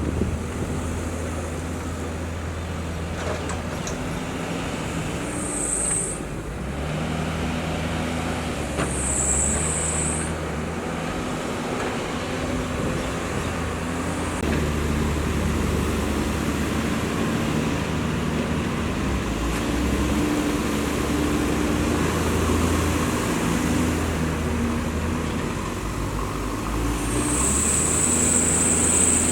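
Diesel engine of heavy earthmoving machinery working under changing load, its revs rising and falling every few seconds. A short high hiss comes three times, about six seconds in, around ten seconds, and near the end.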